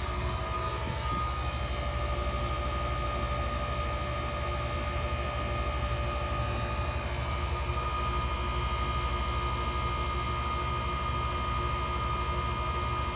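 Self-contained ice machine running: a steady low hum from its compressor and condenser fan, with several steady high tones over it, like a whistle. The technician heard it whistling and goes on to clean its condenser coil.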